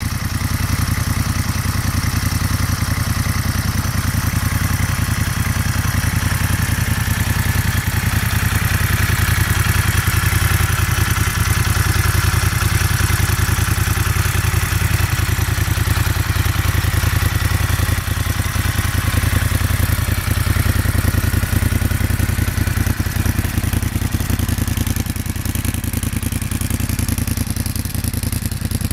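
Moto Guzzi Stelvio's transverse V-twin engine running steadily through an aftermarket GPR Gisa exhaust, with a mechanical clatter over the exhaust note.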